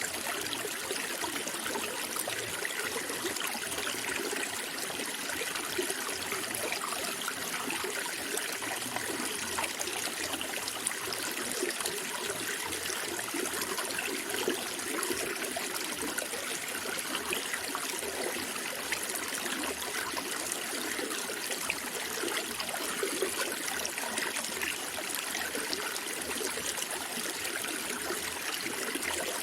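Running water trickling and babbling steadily, without pause.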